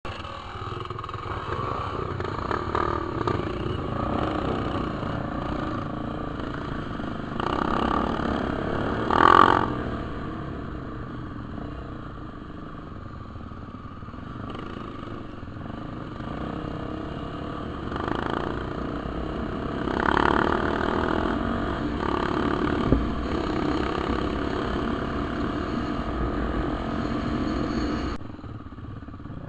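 Dirt bike engine running while riding on a trail, revving up in surges, loudest about a third of the way in, then dropping back near the end.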